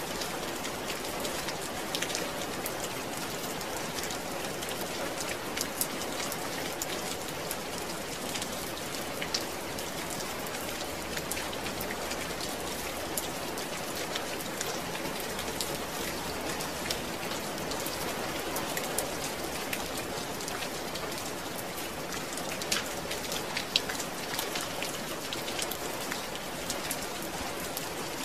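Steady rain falling, with many distinct drops pattering on a surface.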